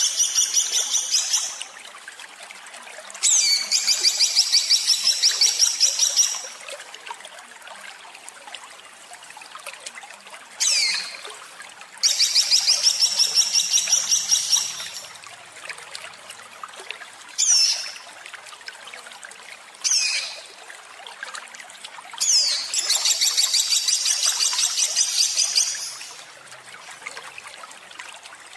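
Songbird giving harsh, rapid-fire repeated notes, the 'tembakan kasar' song type. The notes come in trills of a few seconds each, about seven notes a second, four times. Between the trills there are single short calls that sweep down in pitch.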